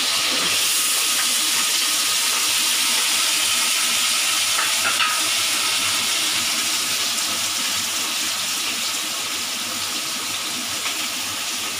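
Diced raw potatoes frying in hot oil in a steel wok, a steady loud sizzle that eases slightly toward the end.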